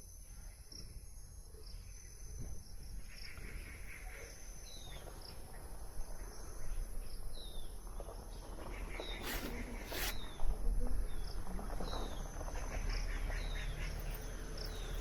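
Forest ambience: a steady high-pitched insect drone with short descending bird calls repeated every second or so. Two sharp knocks come about nine and ten seconds in.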